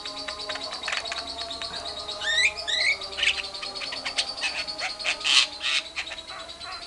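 Caged birds calling: a lovebird's long, rapid chattering 'ngekek' trill over a steady high whistle, with a Javan myna's rising whistled notes about two to three seconds in and a loud harsh burst about five seconds in.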